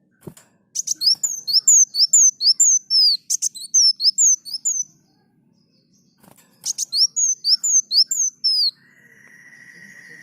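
Brown-throated sunbird singing: two runs of rapid, high chirps, each chirp sweeping downward, about four or five a second. Near the end comes a long, steady, lower whistle.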